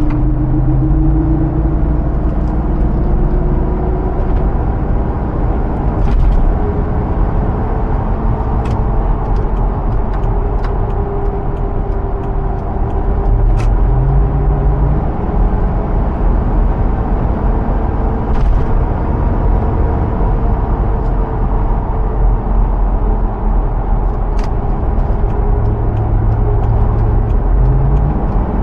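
2005 Hummer H2's 6.0 L V8 running under way with road and tyre rumble. The engine note rises slowly over the first several seconds, then holds steady. A few sharp ticks are scattered through it.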